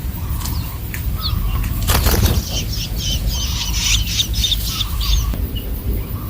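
Young long-tailed shrikes (cendet) chirping in a run of quick high calls from about two seconds in, after a brief rustle, over a steady low rumble.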